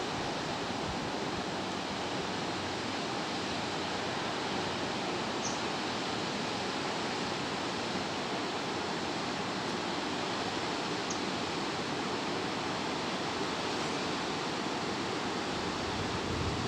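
Steady rushing of Barron Falls, water pouring down the falls.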